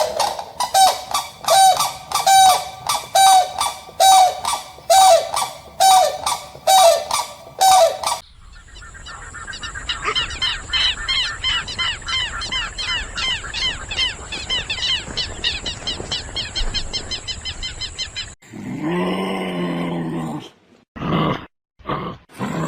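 Bird honking loudly over and over, about two calls a second, for the first eight seconds. It then gives way to a dense, fast chattering of many small birds over a steady high hiss, and near the end to a few low, drawn-out animal calls.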